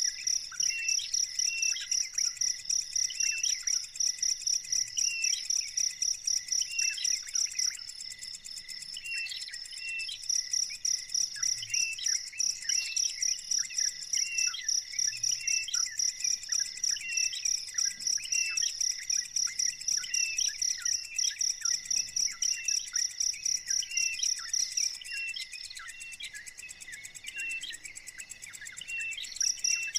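A cricket chirping in fast, even high-pitched pulses, with pauses of a few seconds about a third of the way in and again near the end. Beneath it, a bird repeats short chirps about once a second.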